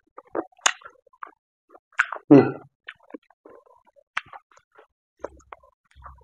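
Close-up eating sounds: wet smacks and clicks of a mouth chewing pork and rice, with one louder, lower mouth sound a little over two seconds in.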